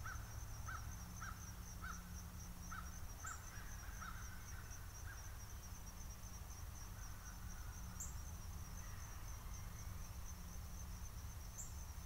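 Faint outdoor ambience: a bird giving a string of short repeated calls, about two a second, for the first five seconds or so, over a steady high insect chirr and a low background rumble.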